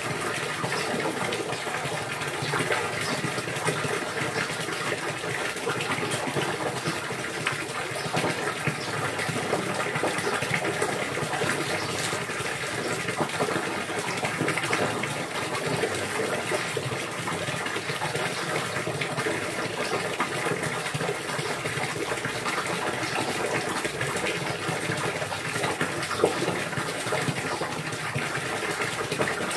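Steady rush of running, splashing water, unchanging in level.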